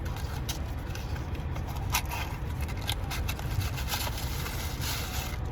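Cardboard blind-box packaging and paper wrapping being handled and torn open, a string of short scrapes and crackles over a steady low rumble.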